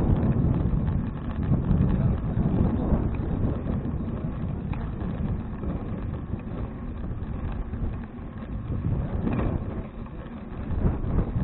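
Wind buffeting the microphone of a bicycle-mounted action camera while riding: a low rumbling noise that swells and fades, dipping about eight and ten seconds in.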